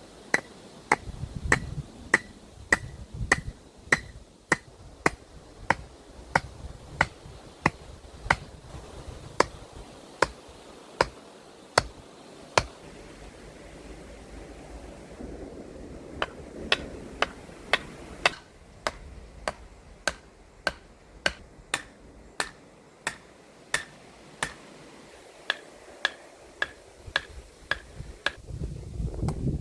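Hammer blows driving a wooden post into the ground: a steady run of sharp strikes, about two a second, each with a slight ring, and a pause of a few seconds about halfway through.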